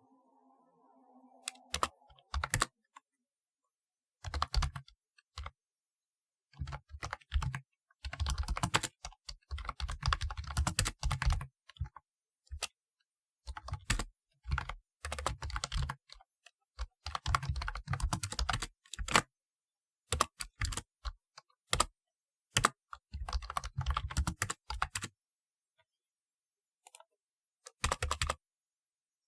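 Typing on a typewriter-style computer keyboard: keys clacking in quick runs of a second or two, broken by short pauses.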